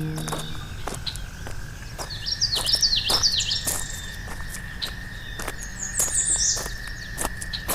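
A songbird chirping in quick rising-and-falling phrases, once about two seconds in and again near the end, over a steady high thin drone and scattered light clicks. Acoustic guitar music fades out at the very start.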